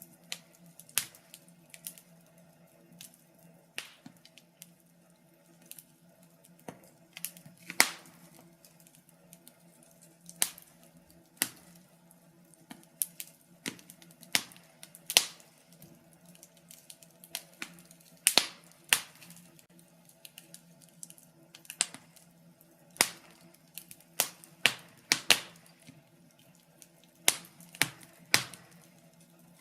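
Wood fire in a fireplace crackling: irregular sharp pops and snaps, sometimes several in quick succession and sometimes a second or two apart, over a faint steady low hum.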